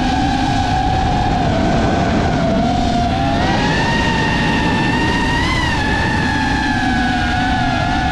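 FPV freestyle quadcopter's four brushless motors (2405, 2850KV) spinning Gemfan 4934 three-blade props, giving a steady whine that rises and falls with throttle. The pitch steps up about three and a half seconds in and swells briefly near the middle. Rough wind and prop-wash rumble runs underneath.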